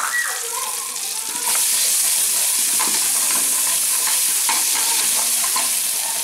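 A red spice paste sizzling as it fries in a metal pot, stirred and scraped with a wooden spoon. The sizzle gets louder about a second and a half in.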